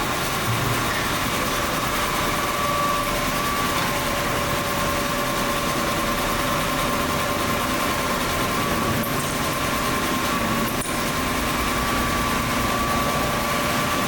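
A machine's electric motor running steadily in a fan workshop: an even hum over a constant rushing noise.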